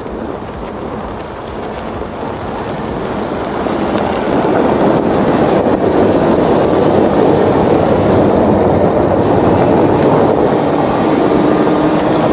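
Vehicle-like mechanical rumble, building up over the first few seconds and then running steadily.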